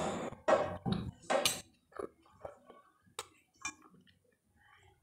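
A person chewing food close to the microphone, with wet mouth clicks and smacks in short, irregular bursts that thin out towards the end.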